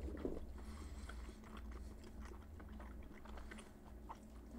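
Faint chewing of a soft, cold acai-and-ground-meat loaf, with many small wet clicks from the mouth.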